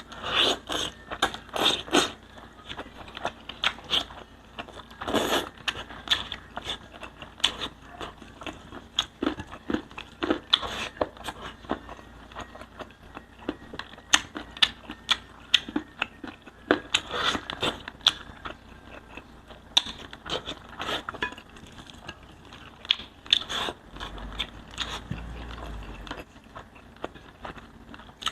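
Close-up eating sounds of spicy pork liempo (grilled pork belly) being bitten and chewed. Irregular crunches and clicks follow one another at an uneven pace, with denser runs of chomping about a second in, around five seconds and around seventeen seconds.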